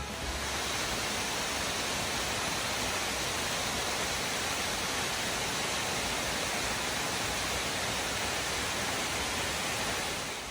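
Soco Falls, a waterfall formed where two streams meet, pouring steadily: an even, unbroken rush of falling water that fades out near the end.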